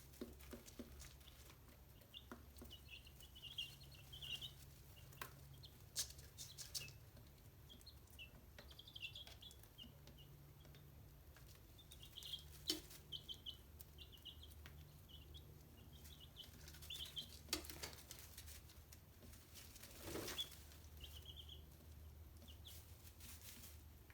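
Chicks peeping faintly in short, high-pitched runs of chirps, with scattered sharp clicks and a low steady hum underneath.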